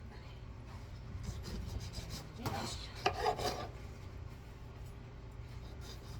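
Large kitchen knife cutting food on a cutting board: scraping, rasping strokes, with a few louder cuts around the middle.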